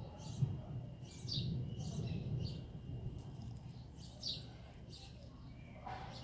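Small birds chirping repeatedly, each call short, high and falling in pitch, over a low rustling of leaves brushing against the phone.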